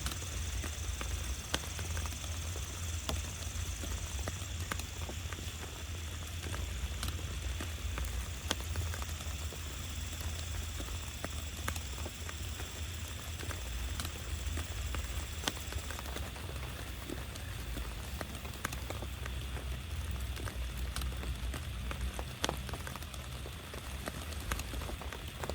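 Steady rain, with many individual drops tapping sharply close by over a continuous low rumble.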